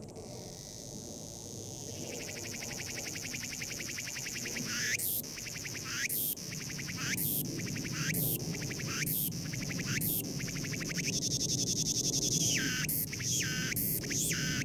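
A cicada singing: a shrill, high buzz that swells over the first couple of seconds, then pulses about once a second, runs on unbroken for a moment, and breaks into quicker pulses near the end.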